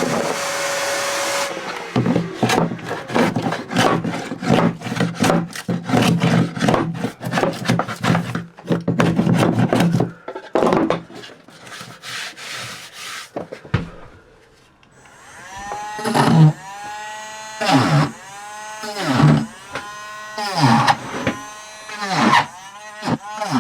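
Power sanding of plywood inside a boat hull, with the sander stopping and starting. In the later part its pitch dips and recovers with each pass, about once a second.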